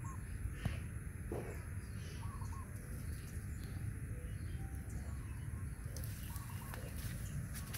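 A bird giving short calls that repeat every couple of seconds, over a steady low rumble.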